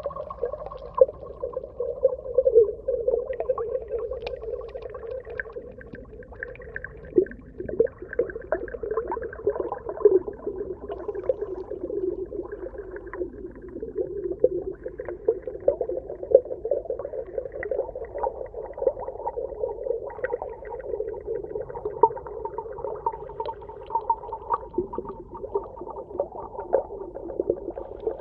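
Underwater ambience: a steady low hum with many small clicks and pops scattered through it.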